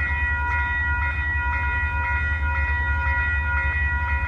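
Passenger train with a P42 diesel locomotive leading, rumbling steadily as it runs past, while the crossing bell dings about twice a second.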